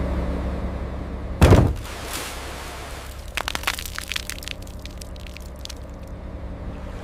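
A large ship's hull is set down onto the pier bumpers by a crane: one heavy impact about a second and a half in, then a run of sharp cracks a couple of seconds later as the weight settles, over a steady low hum.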